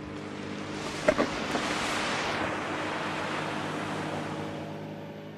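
Small aircraft's engine droning steadily, with a rushing noise that swells and fades and two sharp knocks about a second in.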